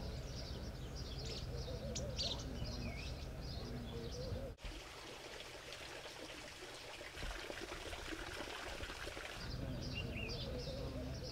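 Faint outdoor ambience of small birds chirping. About four and a half seconds in, the sound changes abruptly to an even hiss with no chirps for about five seconds. Then the bird chirps return.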